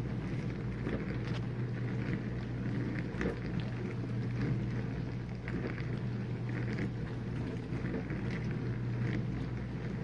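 Whirlpool dishwasher running mid-cycle: a steady low motor hum under the hiss and splash of water spraying inside the tub.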